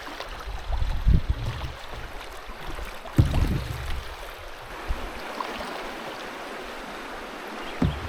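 Flowing river water rushing steadily around a canoe, with two low thumps about a second and three seconds in.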